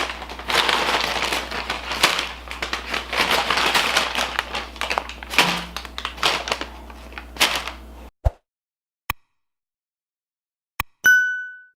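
Crunching and crackling with many sharp clicks over a low hum. About eight seconds in it cuts off to silence, broken by a few clicks and one ringing ding that fades near the end.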